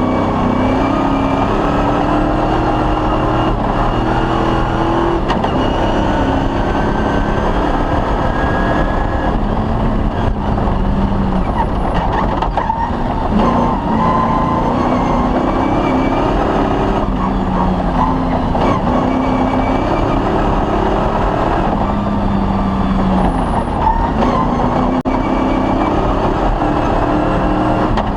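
Off-road rally vehicle's engine running hard under load, its pitch climbing in steps and dropping again several times as it accelerates and shifts, over a constant rumble of noise from the run.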